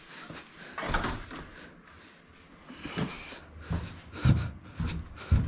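Tyres being handled: a series of dull thumps and knocks in a small room, the loudest near the end.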